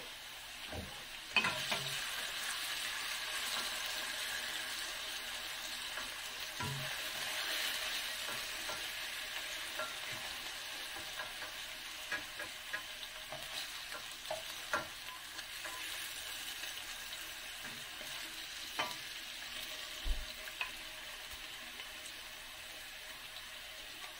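Julienned potato strips sizzling in hot oil in a nonstick wok, with scattered clicks and scrapes of a spatula as they are scooped out into a bowl. The sizzle grows a little quieter toward the end as the pan empties.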